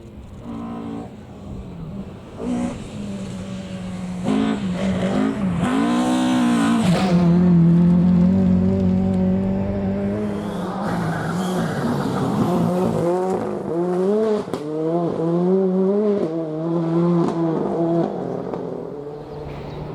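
Rally car engine at full throttle, its pitch climbing and dropping again and again as it shifts gear and lifts for corners. It grows louder as the car approaches, is loudest a few seconds in, and fades near the end as it moves away.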